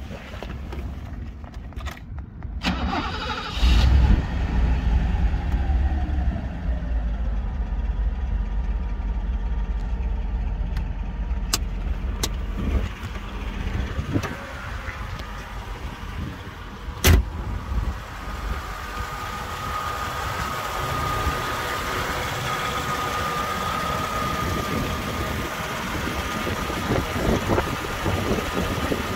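A 1987 Mercedes-Benz 560SL's 5.6-litre V8 cranks and catches a few seconds in, then idles steadily. A single sharp knock comes about seventeen seconds in. In the later part the idle is heard from the open engine bay, with a steady high whine over it.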